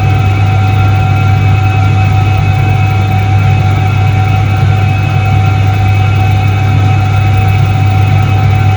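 1978 Soviet Iset-3 washing machine running steadily: a low, even motor hum with a steady higher tone riding above it.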